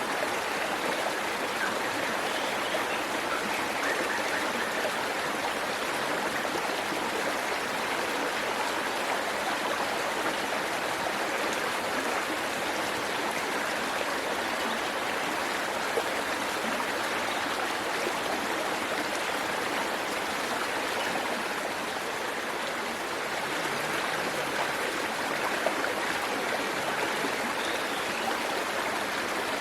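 Waterfall: water falling and running in a steady, even rush that never changes.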